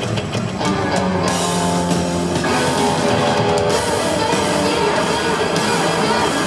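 Rock music with electric guitar and a drum kit, played loud and steady.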